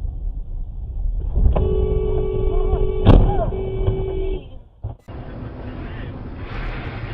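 Vehicle road rumble, then a car horn held for about three seconds, with one loud crash impact partway through it. The horn stops, and after a short break the road noise carries on.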